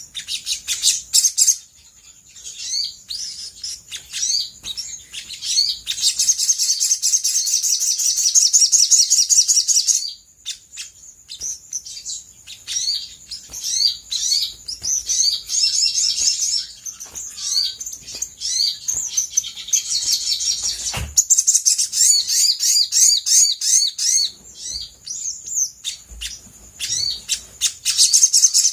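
Olive-backed sunbird singing: rapid high-pitched chirps and sweeping notes, broken by long fast trills, the 'konslet' style that bird-keepers play as a lure to draw other birds to answer.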